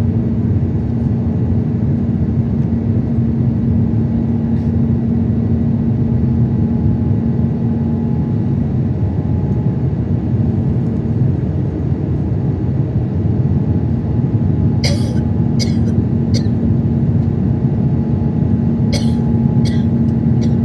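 Airbus A350-900 jet airliner's steady low engine drone. A low hum in it fades out about nine seconds in and returns about five seconds later, and a few short sharp clicks come near the end.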